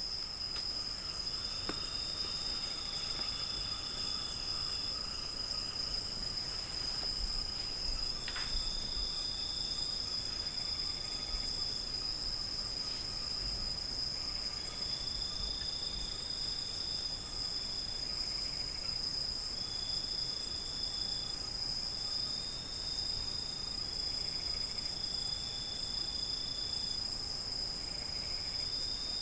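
Crickets chirring in chorus at night: a steady, unbroken high-pitched trill, with shorter, slightly lower trills of a second or two starting and stopping over it.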